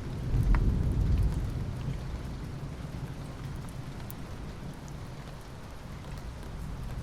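Steady rainfall with scattered drops ticking, and a low roll of thunder that swells in the first second and fades over the next couple of seconds.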